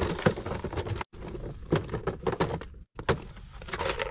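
Lumps of coal being struck and broken up into smaller pieces: a series of sharp knocks, several strikes in quick succession.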